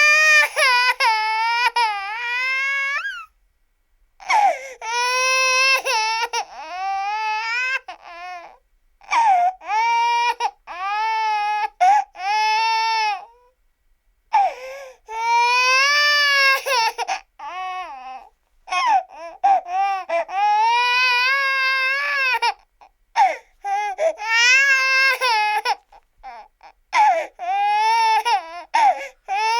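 A baby crying in a long run of high-pitched wails, each one to three seconds long, rising and falling in pitch with short breaths between them.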